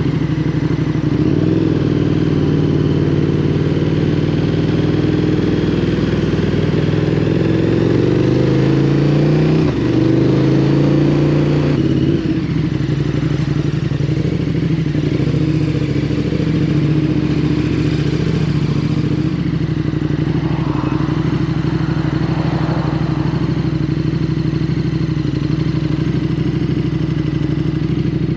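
KTM 1290 Super Duke's V-twin engine accelerating, its note rising, dipping at a gear change about ten seconds in and rising again. Near the middle the throttle closes and the engine settles into a steady cruise.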